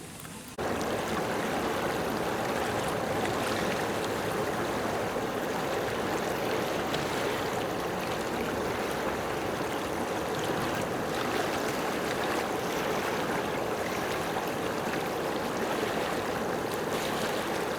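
Steady rush of running water that starts abruptly about half a second in, with a few faint splashes.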